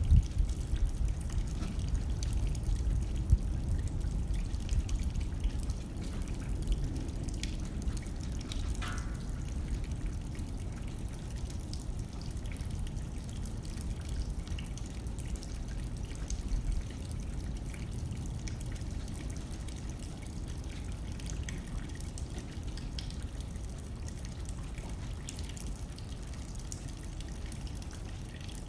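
Rain pattering on a window, with scattered drips ticking against the glass over a steady low rumble of blowing wind.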